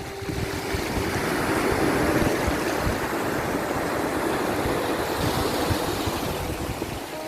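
Ocean surf washing in a steady rushing hiss that swells a little about two seconds in, with a few soft held notes of gentle music faintly underneath.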